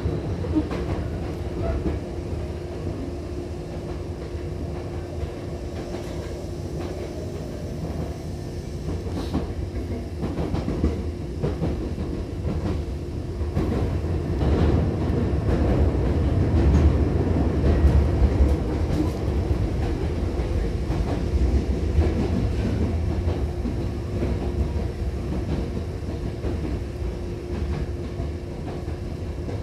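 Running noise inside a Hankyu 7000-series commuter car: a steady rumble of wheels on rail with scattered clicks of the rail joints. It grows louder about halfway through, then eases off again toward the end.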